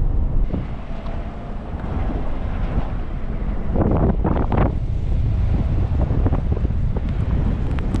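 Wind buffeting the microphone as a steady low rumble, with a louder burst about four seconds in.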